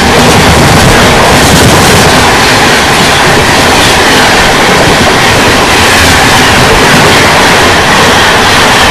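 Train running at speed, heard close up: a loud, steady rumble and rattle of wheels on the rails.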